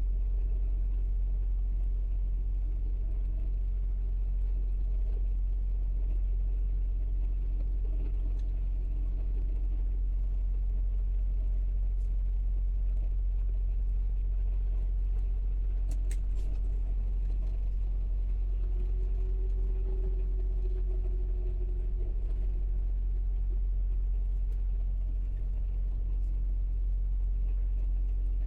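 Steady low rumble of a semi-truck, unchanging throughout, with a few faint clicks.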